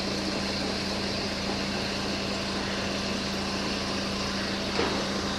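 A railway locomotive running steadily: an even hum with a hiss above it, and a single click near the end.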